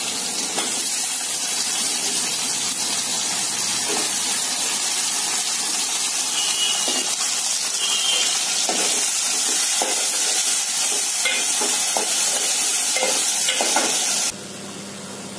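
Whole slit brinjals frying in hot oil in an aluminium pot: a steady sizzle, with a metal ladle knocking and scraping against the pot now and then as they are stirred. The sizzle drops off sharply near the end, leaving a fainter hiss.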